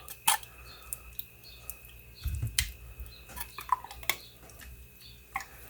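Cream of mushroom soup being emptied into a casserole dish: scattered light clicks and taps of a spoon and container against the dish, with a soft low thud a little over two seconds in. A faint steady high hum sits underneath.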